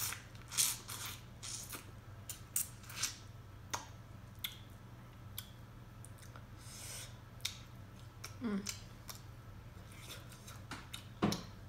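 Close-miked mouth sounds of a person eating sausage in seafood boil sauce: wet chewing, lip smacks and clicks. A short falling "mm" comes about eight and a half seconds in.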